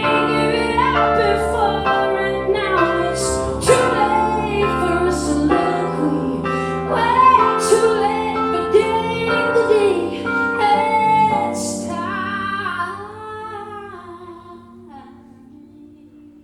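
Live female vocal singing over instrumental accompaniment, the closing passage of a song, which fades away over the last few seconds.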